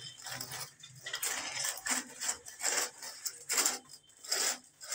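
Repeated short scraping and clinking sounds, about five of them, as of tools or materials being handled.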